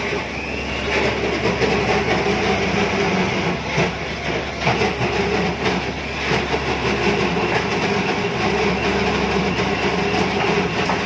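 Steady drone of a ship's engine with a constant hum, overlaid by irregular clatter and knocks from kitchen work.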